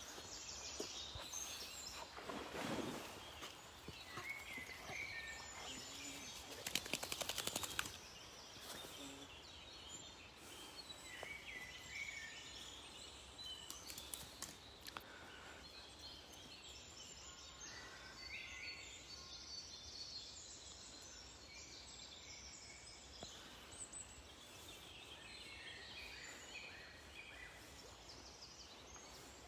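Several songbirds singing and chirping at once, short trills and calls overlapping throughout. About seven seconds in comes a brief burst of rapid crackling clicks, the loudest sound.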